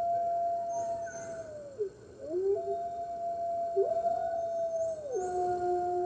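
Wolves howling in chorus: long, overlapping howls from at least two animals, one held steady at a higher pitch while a lower voice joins in. The pitch dips and swoops up about two seconds in, and a new howl comes in near the end at a lower pitch.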